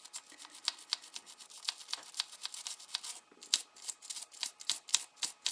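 A nylon-bristle brush scrubbing old RTV silicone off engine bolts, in a quick, irregular run of short scratchy strokes.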